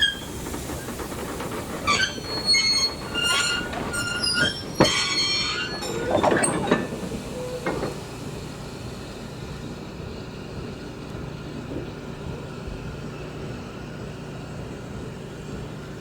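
Heritage train's wheels squealing in several high, shifting tones as it rolls along the track, with a sharp clank about five seconds in. After about eight seconds the squeal stops, leaving a quieter, steady rumble of the train running.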